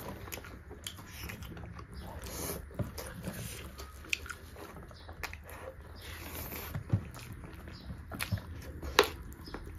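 Two people chewing and smacking their lips as they eat beef curry and rice by hand, with scattered sharp mouth clicks. The sharpest click comes about nine seconds in.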